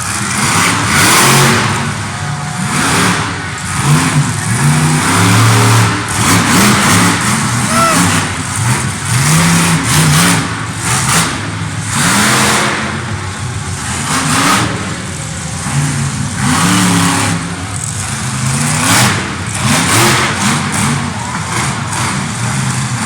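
Monster truck engine revving hard, loud, its pitch climbing and falling again and again as the throttle is blipped and opened up.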